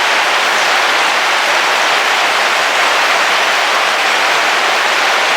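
Heavy rain falling steadily on a car roof, heard from inside the vehicle as an even, unbroken hiss.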